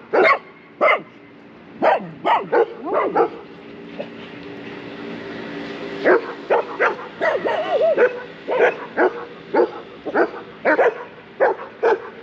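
Dog barking repeatedly, short sharp barks in quick runs, with a pause of about two seconds around four seconds in and a wavering whine-like call a little before the eight-second mark.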